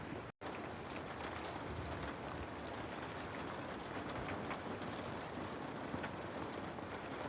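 Steady rain: an even hiss with scattered drop patter. The sound cuts out completely for a split second about half a second in, then resumes.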